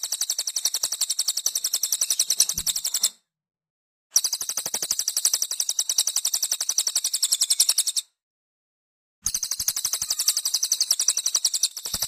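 Cililin (pygmy bushtit) song: fast, evenly repeated high chirps, about ten a second, in long runs of about four seconds, each broken off by a second of silence.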